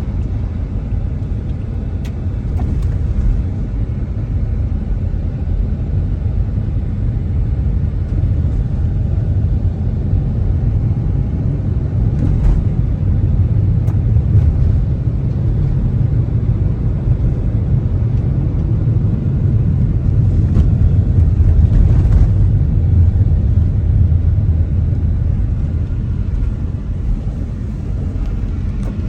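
Steady low rumble of a car driving, engine and tyre noise heard from inside the cabin, with a few faint short knocks along the way.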